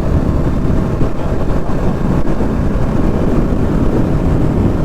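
Motorcycle being ridden at speed, heard from the rider's microphone: a steady rush of wind and engine drone.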